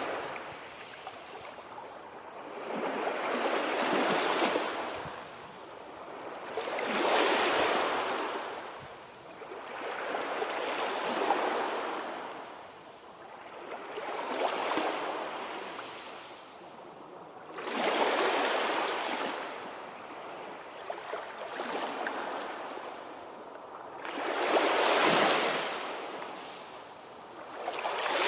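Sea waves breaking, a wash of surf that swells and fades in a steady rhythm, about one wave every three to four seconds.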